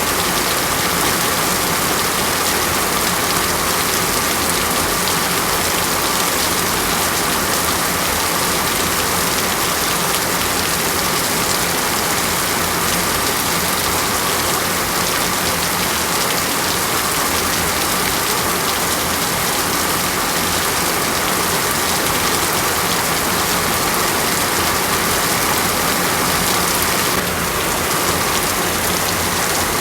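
Steady, even rain falling on a surface: a continuous hiss of many drops with no breaks and no thunder.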